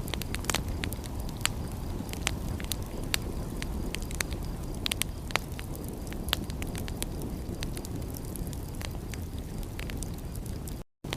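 Wood fire in a fireplace crackling, with irregular sharp pops and snaps over a steady low rumble. The sound cuts out completely for a moment near the end.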